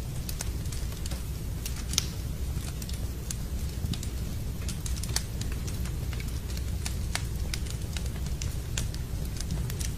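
Wood fire crackling in a fireplace, with irregular sharp pops scattered through, over a steady background of rain.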